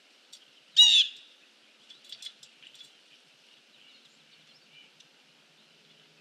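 A bird calls once loudly, a short call with a sliding, falling pitch about a second in, then gives a few quick, softer chirps about two seconds in.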